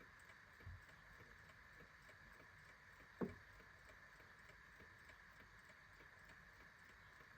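A clock ticking faintly and steadily over a low hiss. A dull low thump comes just under a second in, and a single sharp, louder knock about three seconds in.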